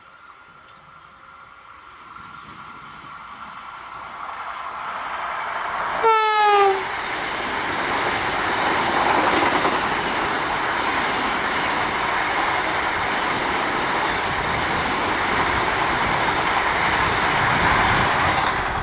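Vande Bharat Express electric trainset approaching at speed, its running noise growing louder. About six seconds in it gives one short horn blast that falls slightly in pitch. Then comes the loud, steady rush of the train passing close by.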